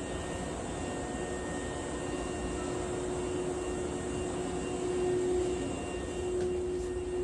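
Steady running noise of an electric train heard from inside the car: a low rumble with a constant hum tone over it, swelling slightly a couple of times.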